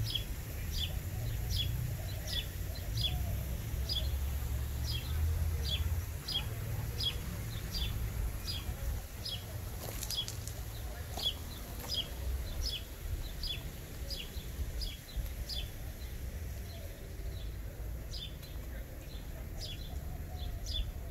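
A songbird repeating a short, high, falling chirp, about two a second, with a pause partway through, over a low outdoor rumble.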